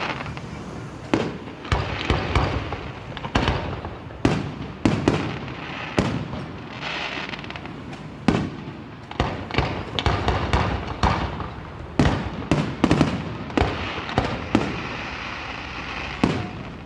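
Aerial firework shells bursting in quick succession, a rapid series of sharp booms with crackling between them, several coming close together around the middle and near the end.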